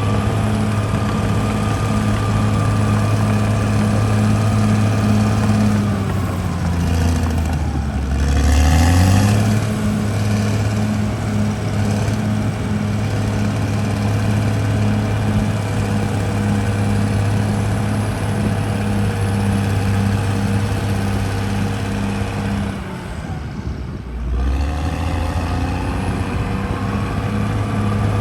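CAT D6R bulldozer's diesel engine running steadily at high revs. About six seconds in, its pitch sags low for a few seconds, with a loud burst of rushing noise, then climbs back. Near twenty-three seconds it dips and quietens briefly before recovering.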